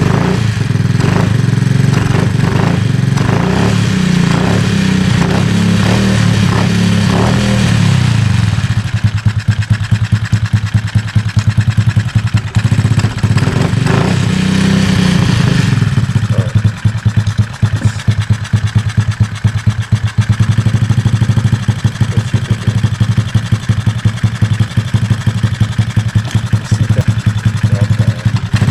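Kayo pit bike's small single-cylinder four-stroke engine running after a carburettor overhaul. It is held at a raised speed for about eight seconds, then drops to a steady, pulsing idle, with a brief rise in speed about halfway through.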